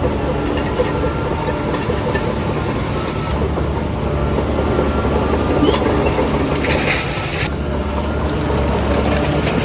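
Crawler bulldozer's diesel engine running steadily under the rattle and clank of its tracks, with a short hiss about seven seconds in.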